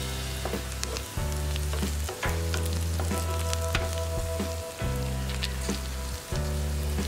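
Onions, green chilies and freshly added curry leaves sizzling in hot oil in a frying pan, with scattered crackling pops as a wooden spatula stirs them.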